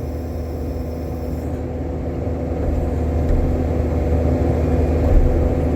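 Backhoe's diesel engine running with a steady hum, getting a little louder about halfway through as the hydraulic arm and bucket are worked.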